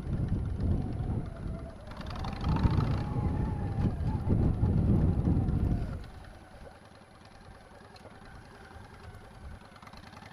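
Motorcycle engine pulling away and running under load with a low rumble, its pitch rising about two seconds in. About six seconds in it eases off to a much quieter steady idle.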